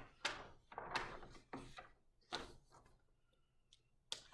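Large paper pages of a big book being turned, about four swishing sweeps in the first two and a half seconds, then quieter.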